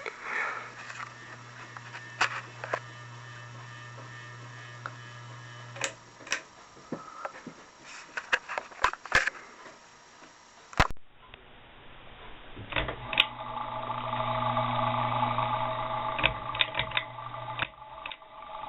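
HB Landmark Plus ceiling fan motor running with a steady electric hum and scattered light clicks and ticks. About eleven seconds in, a cut brings the hum back louder, joined by a higher steady whine.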